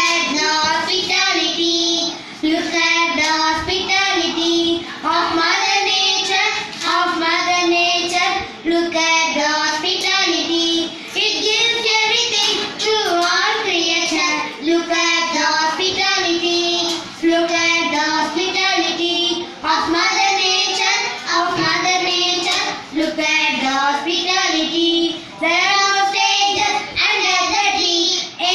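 A child singing a school poem line by line, unaccompanied, in short melodic phrases with brief breaths between them.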